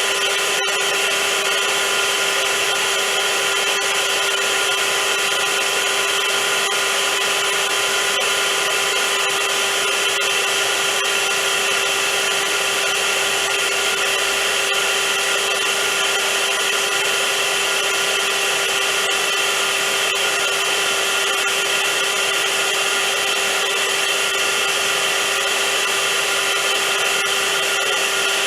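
Vacuum cleaner motor running steadily, a constant whine over an even rushing hiss, with one momentary dropout just after it begins.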